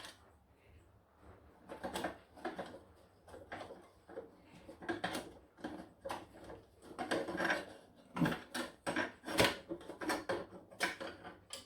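Irregular small knocks, clicks and scrapes of a clock's movement and slate case being handled while the movement's fixing screws are undone, with a couple of louder knocks after about eight seconds.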